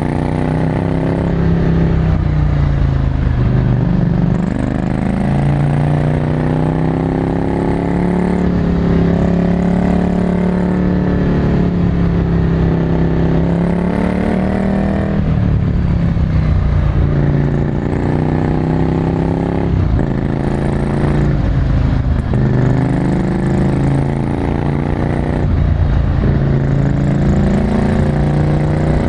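Ducati Scrambler Desert Sled's air-cooled 803 cc L-twin, breathing through a full Termignoni exhaust, running loud under riding. The revs rise and fall again and again as the bike accelerates, shifts and slows.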